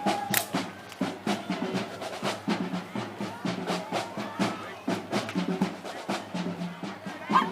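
Parade band drums playing, with snare drum strikes and rolls.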